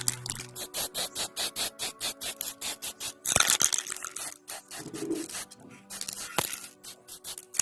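Aerosol spray-paint can rattling in fast, even clicks, about five a second, as it is shaken. About three seconds in comes a spray hiss lasting about a second, followed by further lighter rattling.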